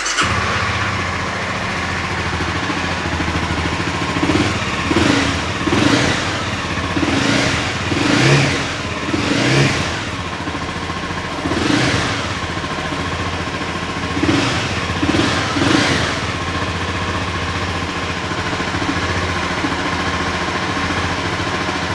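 A 2016 Honda CBR300's single-cylinder engine, just started and idling. It is blipped with a run of short throttle revs between about four and sixteen seconds in, then settles back to a steady idle.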